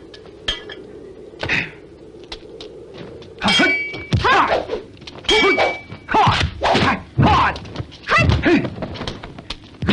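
Kung fu film fight sound effects: punches and kicks landing as sharp thuds and whacks, with the fighters' yells and grunts falling in pitch between them. Twice a hit rings briefly.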